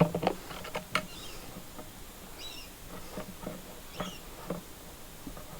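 Scattered light clicks and a few short high squeaks from the fuel-tank parts of a brushcutter being handled with the fuel cap off.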